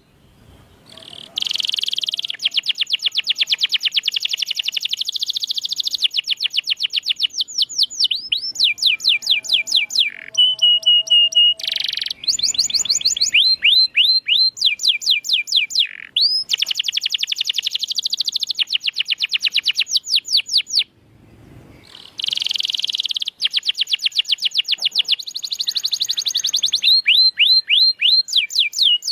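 Domestic canary singing: a long song of fast trills and rapidly repeated rolling notes, with a short held whistle in the middle, broken by brief pauses about a second in and again about three-quarters of the way through.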